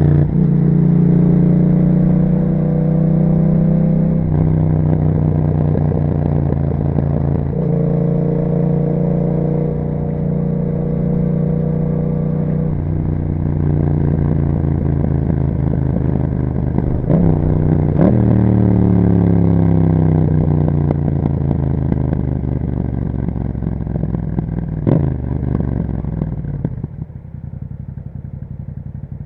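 2021 Yamaha MT-07's 689 cc parallel-twin engine through an Akrapovic exhaust, running under way. Its pitch holds steady and then steps to new levels several times, with three short, sharp revs in the second half, and it falls quieter near the end.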